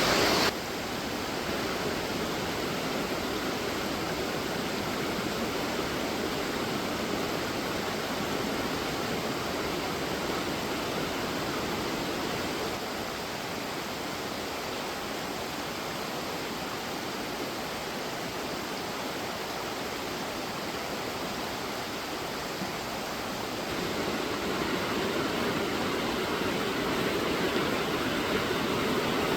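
River water flowing and rushing steadily, a little louder in the last few seconds.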